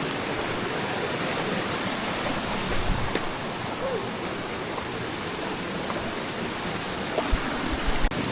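Steady rush of a waterfall: an even roar of falling water, with a few short low bumps near the end.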